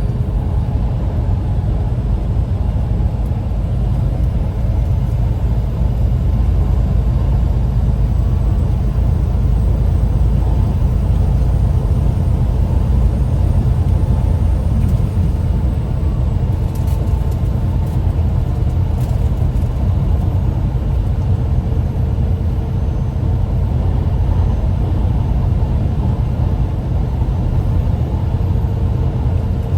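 Steady low rumble of a car heard from inside the cabin, with a few faint clicks about halfway through.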